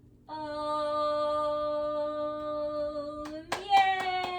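A voice holding one long steady sung 'ahh' on the out-breath after a deep breath in, then jumping up to a higher held note about three and a half seconds in, over quick hand claps.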